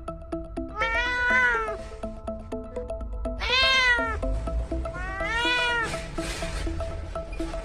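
A domestic cat meowing three times, each a long call that rises and then falls in pitch, over background music with a steady repeating pattern of short notes.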